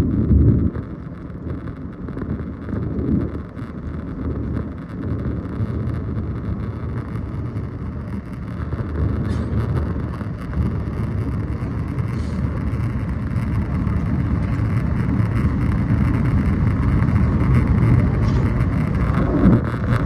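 Steady low rumble of engine and airflow noise inside the cabin of a Boeing 737 MAX 8 airliner, slowly growing louder, with a few faint ticks.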